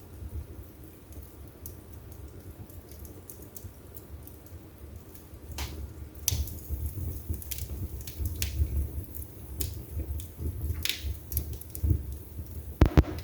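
Wood fire burning in a fireplace: a low rumble of flames with scattered crackles and pops. The pops grow denser and louder in the second half, and the sharpest one comes near the end.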